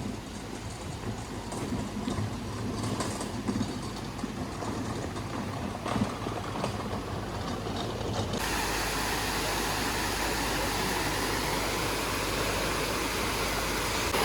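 A low, uneven rumble with scattered small clicks, then, about eight seconds in, a steady rush of flowing water starts suddenly and keeps on evenly.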